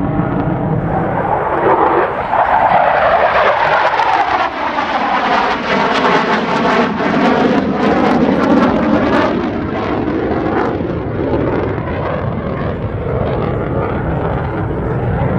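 F-16 Viper fighter jet making a loud pass in an air show demo, its jet noise holding steady with a phasing sweep that falls and then rises again as it goes by.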